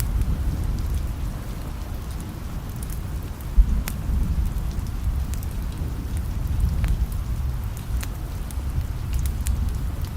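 Steady rain with a low rumble of distant thunder underneath and scattered sharp clicks, and a brief low thump about three and a half seconds in.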